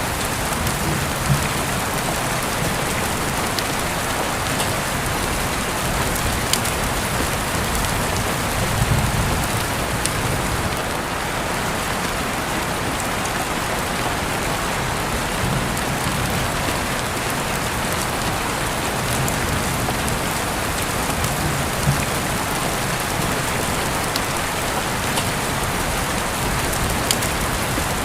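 Steady rain falling, with now and then a single louder drop ticking sharply.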